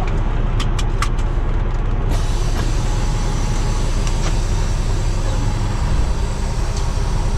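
Semi truck's diesel engine running in the cab as the truck moves off, with a few clicks in the first second and a steady hiss that comes in about two seconds in.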